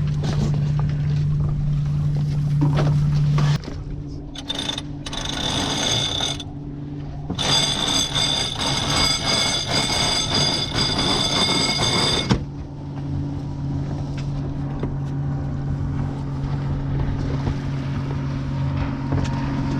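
Boat motor running at a steady pitch under wind and water noise. For several seconds in the middle a brighter hiss with several steady high whistling tones takes over, then the motor hum returns.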